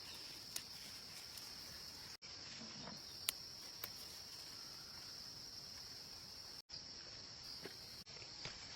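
Faint, steady high-pitched chirring of insects, with a few small clicks. The sound drops out briefly twice.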